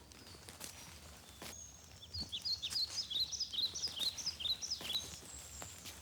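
A songbird singing a quick run of short, high chirps for about three seconds, starting about two seconds in, over faint forest ambience.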